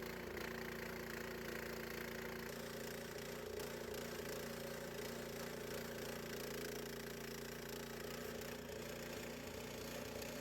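Gas engine of a Harbor Freight Central Machinery portable bandsaw mill running steadily under way, with a slight change in tone about two and a half seconds in.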